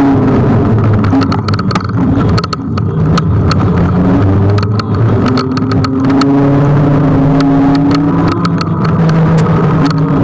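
Kugoo G1 electric scooter being ridden: loud continuous wind and road noise, with frequent clicks and rattles over the riding surface and a low hum that slowly shifts in pitch.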